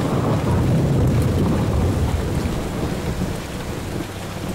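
Heavy rain pouring down, with a deep rumble of thunder that is loudest about a second in and slowly dies away.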